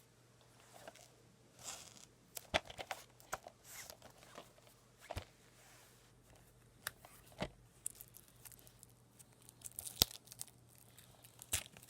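Plastic packaging being crinkled and torn open by hand, with irregular sharp clicks and short rustles throughout.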